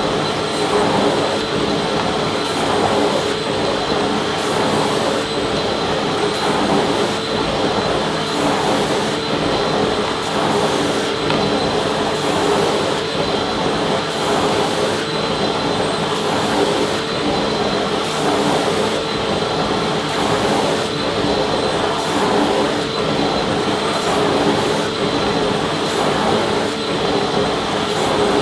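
Vacuum cleaner running steadily: a constant motor whine over an even rush of air, with no change in speed.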